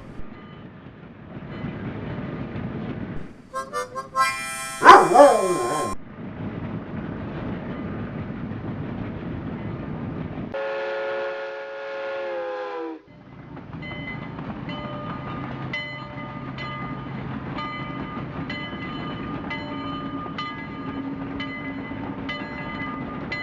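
Train sounds in an edited soundtrack: a very loud pitched sound that slides sharply down in pitch about five seconds in, a steady horn blast held for a couple of seconds around the middle, then a running train rumbling with a string of clicks.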